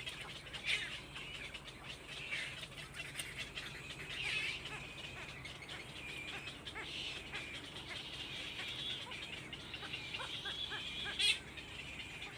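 High-pitched bird chirping, a steady stream of short calls, with a few sharper, louder chirps: about a second in, around the middle of the first third, and near the end.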